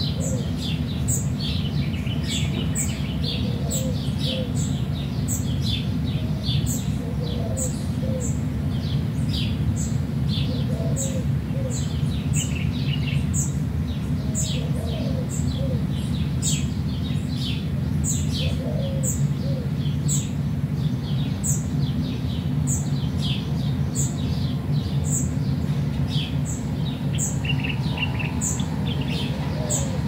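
Several songbirds chirping and calling, with one high, thin call repeated evenly about one and a half times a second, over a steady low rumble.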